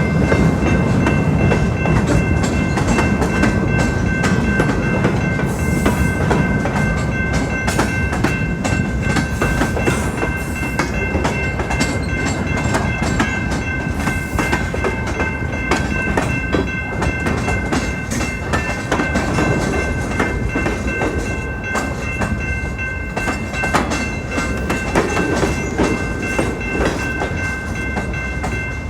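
Freight cars of a CN freight train rolling past, with the clickety-clack of wheels over the rail joints. A steady, high ringing tone sounds over it throughout.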